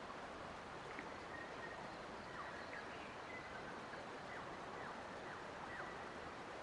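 Forest nature ambience: a steady rushing background hiss with birds giving short chirps and quick falling whistles, starting about a second in and recurring through the rest.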